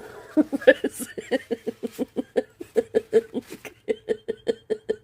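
A woman laughing in a long run of short, evenly spaced bursts, about five a second.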